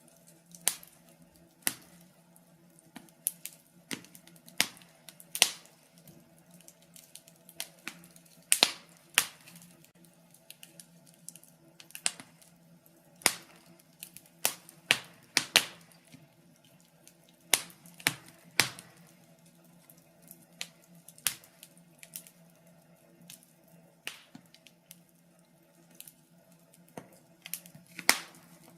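Wood fire in a fireplace crackling, with irregular sharp pops and snaps at uneven intervals over a faint steady hum.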